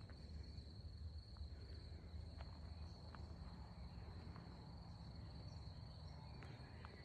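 Crickets trilling in one steady, faint high-pitched tone, over a low rumble and a few faint ticks.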